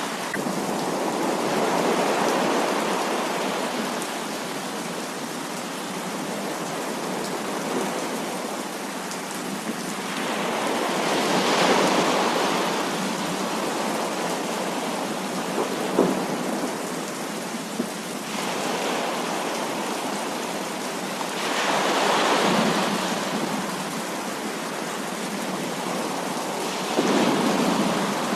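Heavy rain falling steadily, with thunder rolling in and fading away several times, and a few sharp raindrop ticks.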